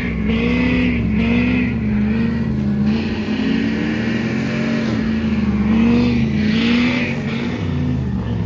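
Pickup truck engine being revved in repeated short blips, its pitch rising and falling several times. A second engine idles lower and steadier underneath.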